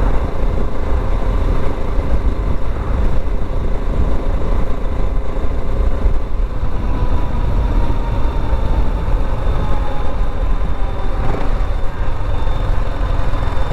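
BSA Gold Star 650's single-cylinder engine running under way at road speed, with wind rumble on the microphone. The engine note slides down a little in the second half.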